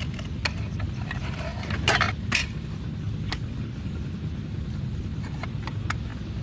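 Steady low rumble with scattered sharp clicks and a brief clatter about two seconds in, like camp cookware being handled.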